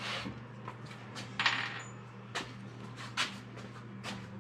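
Metal parts and tools clinking and tapping on a workbench: about six sharp, light metallic clicks, one with a brief high ring about a second and a half in, over a steady low hum.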